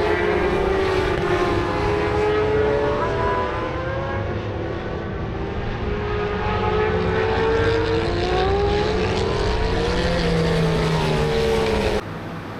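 Racing motorcycles lapping the circuit: several engines at once, their pitch rising and falling as they accelerate and brake. The sound drops away abruptly near the end.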